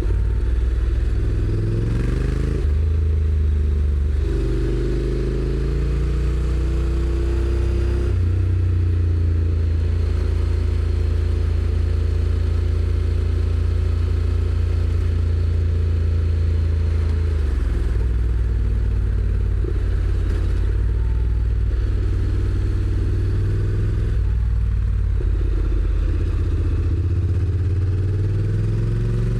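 Honda NC750X's parallel-twin engine under way: it climbs in pitch through a few quick automatic (DCT) upshifts in the first several seconds, holds a steady cruise for about ten seconds, eases off, then pulls up in pitch again near the end.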